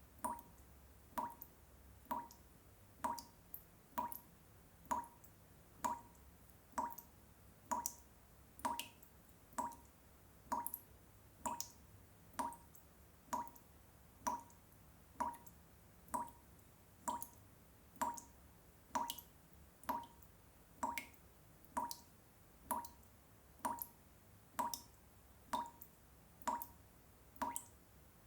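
Water drops falling one at a time into water at a steady, even pace, a little under two drops a second, each a short drip with a brief ringing note.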